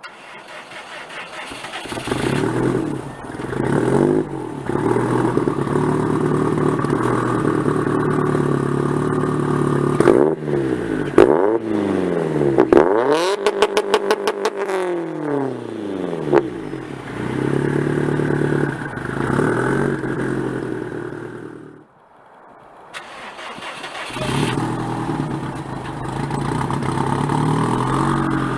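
Turbocharged 2.5 L flat-four of a 2010 Subaru STI running through a GrimmSpeed cat-back exhaust, idling with throttle blips. About ten seconds in it revs up and down several times, with a fast run of sharp crackles at the top of one rev. The sound drops away a little after twenty seconds, then the engine idles again.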